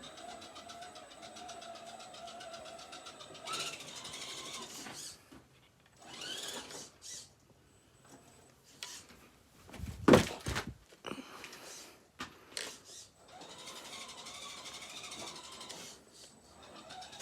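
Redcat Gen7 Sport 1/10 rock crawler's electric motor and gear drive whining in several bursts of throttle, with a short loud knock about ten seconds in.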